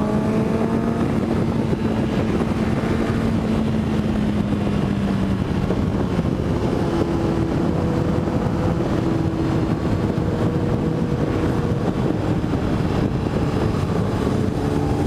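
Motorcycle engine running at a steady cruise under heavy wind rush, its note shifting a little about five to seven seconds in.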